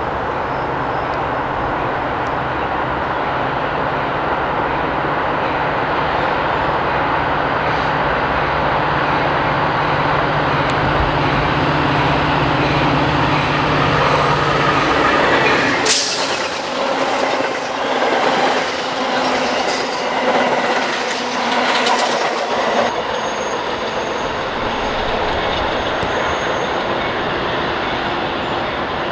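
Metra commuter train passing on the nearest track: a steady low engine hum for the first half. About halfway through, a sudden sharp burst, then several seconds of rhythmic wheel clatter over the rail joints as the cars go by.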